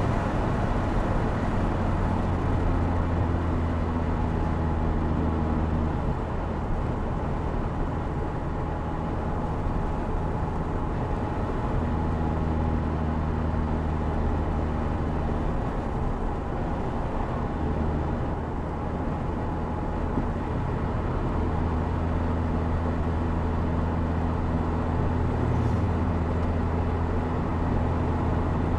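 Opel Speedster Turbo's mid-mounted 2.0-litre turbocharged four-cylinder engine running as the open-top car drives along, its note shifting in pitch a few times, with tyre and wind noise underneath.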